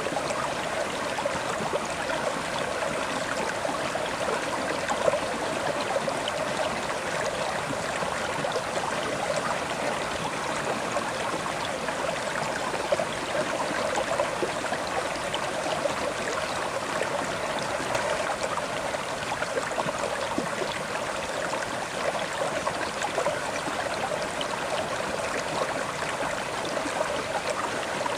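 River water flowing steadily over rocks, a continuous rushing with small gurgles and splashes.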